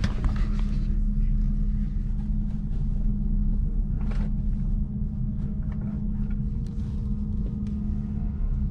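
Steady low rumble and hum of a DB Twindexx IC2 double-decker Intercity train, with a single knock about four seconds in and a few faint clicks.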